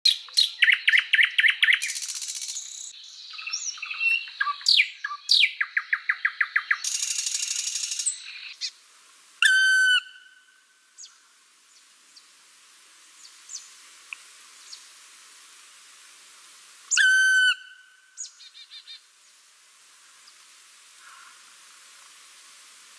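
Songbirds singing: a fast, varied run of trills, whistles and chirps for about the first eight seconds, then one loud short call repeated twice, several seconds apart, with faint chirps between.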